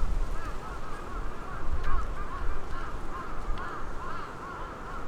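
A flock of geese calling overhead: many short, overlapping honks, with wind rumbling on the microphone.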